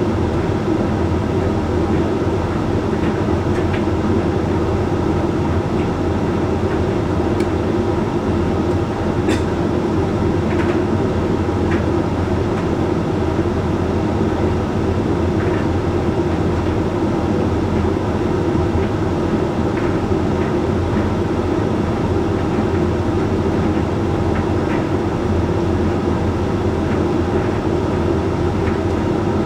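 Hoover Link X Care condenser tumble dryer running mid-cycle on a load of whites: a steady hum of the motor and turning drum, with a few faint light ticks.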